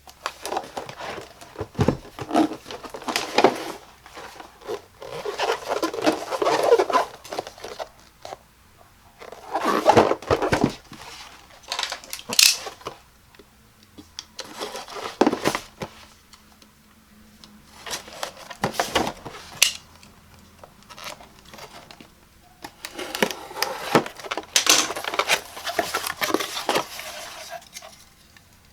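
Hands handling a product box and its packaging close to the microphone: bursts of rustling, scraping and tearing with sharp taps and clicks, broken by short pauses.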